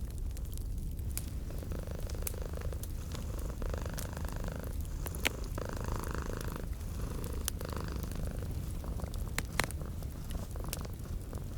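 A cat purring steadily in slow, rhythmic swells, mixed with the sharp pops and crackles of a wood fire. Two pops stand out, about five seconds in and again near the end.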